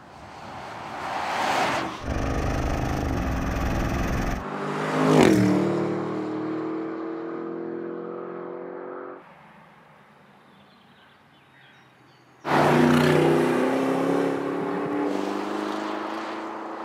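Porsche Cayenne GTS's twin-turbo V8 heard from the roadside: the SUV approaches and passes close by with a sharp drop in pitch about five seconds in, then accelerates away with its engine note rising. After a quieter stretch, the sound jumps back loud at about twelve seconds as the car pulls away again under acceleration, its note climbing.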